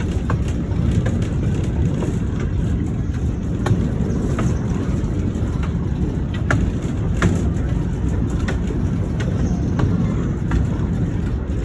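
Ooty toy train of the Nilgiri Mountain Railway running, a steady low rumble with irregular sharp clicks and clanks.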